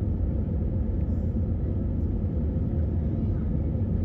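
Steady low rumble of a moving vehicle heard from inside, even and unchanging, with a faint steady hum above it.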